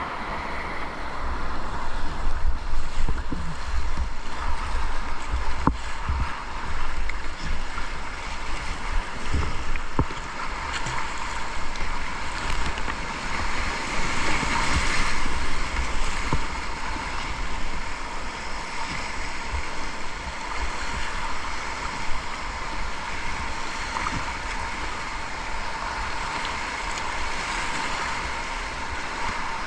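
River water rushing and splashing over rapids, with wind buffeting the microphone.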